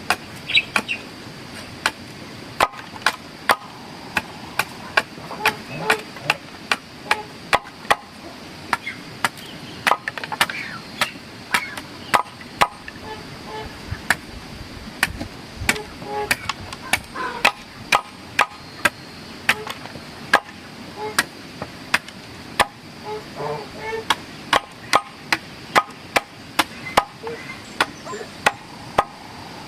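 A hand tool striking over and over in sharp blows, about two a second, with brief uneven gaps.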